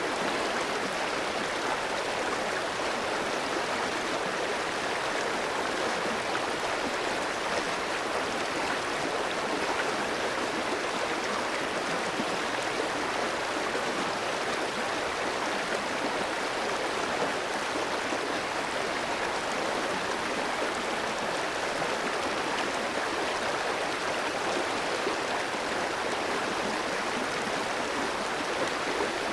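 A clear mountain stream flowing and babbling over rocks, a steady even rush of water.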